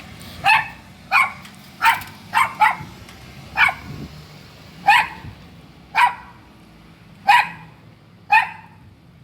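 A riled-up dog barking at a person, about ten single barks spaced irregularly, roughly half a second to a second apart, with a quick double bark around two and a half seconds in.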